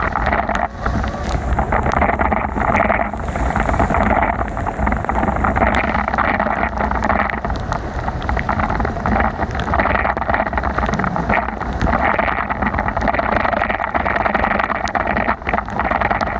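Wind rumbling on the microphone over a steady wet hiss of a bicycle riding on rain-soaked roads, with scattered small ticks.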